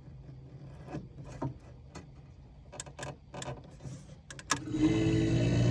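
Defrost timer knob on an old refrigerator turned by hand, giving a series of small clicks. About four and a half seconds in a sharper click comes as the timer advances out of its stuck position, and the refrigerator starts up with a steady hum.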